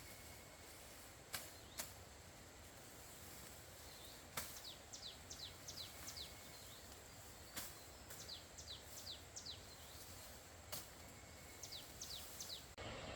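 Faint forest ambience: a bird calls in three quick bouts of short, falling high notes, over a steady high hiss. Five sharp clicks or knocks stand out now and then.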